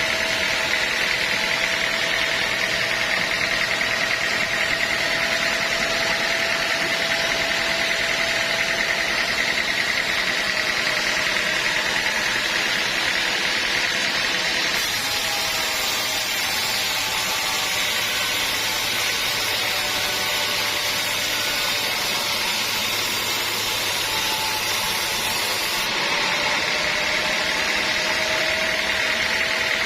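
Sawmill machinery running steadily, with a constant mechanical whine. The sound changes about halfway through and returns to the first sound near the end.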